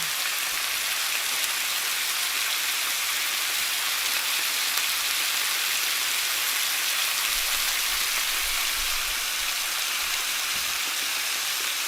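A steady, even hiss that holds at one level throughout, with no distinct clicks or knocks.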